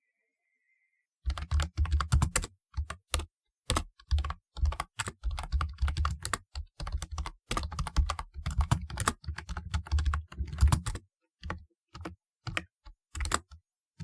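Typing on a typewriter-style keyboard: quick runs of keystrokes with short pauses, each stroke carrying a solid low thump. It starts about a second in and thins to scattered single keystrokes near the end.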